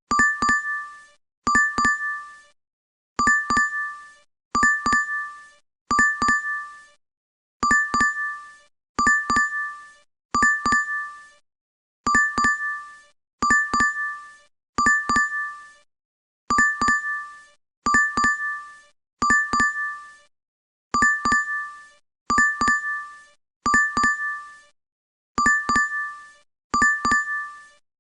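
DoorDash app's notification chime: a short bright two-tone ding with a quick double strike, repeating over and over about every one and a half seconds.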